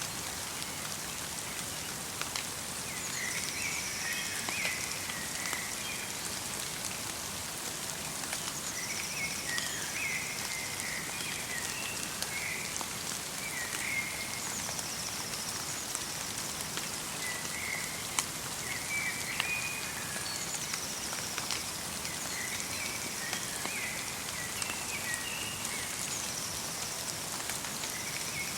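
Steady light rain falling, with scattered drop ticks, and a songbird repeating a short chattering phrase of chirps about every five or six seconds.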